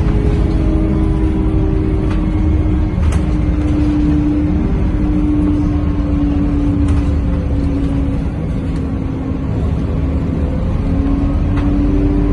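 Scania K230UB Euro V bus's diesel engine and drivetrain heard from inside the cabin while riding: a heavy low rumble with a whine that slowly falls as the bus eases off and rises again near the end as it picks up speed. Occasional light clicks come through.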